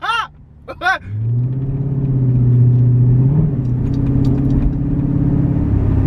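Chrysler 300's Hemi V8 running through straight pipes with all mufflers removed, swelling from about a second in to a loud, deep drone as the car accelerates. The pitch climbs a little, then holds steady.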